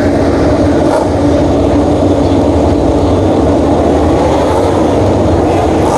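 Many MotoGP bikes' 1000 cc four-cylinder racing engines at high revs, blending into one loud, steady sound, with faint pitch glides in the second half as individual bikes shift or pass.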